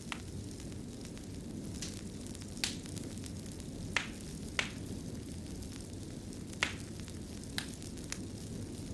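Wood fire burning in a fireplace: a steady low rush of flames with about eight sharp, irregularly spaced crackles and pops.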